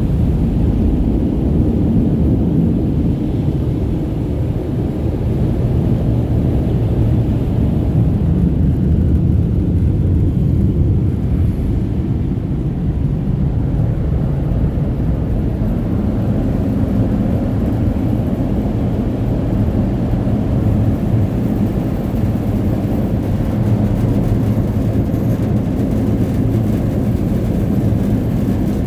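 Automatic car wash machinery running around the van, a loud steady low roar heard from inside the vehicle's cabin.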